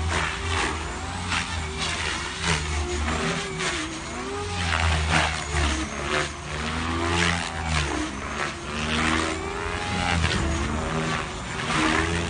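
Toy remote-control helicopter's small electric motors and rotor running, the pitch gliding up and down as the throttle changes.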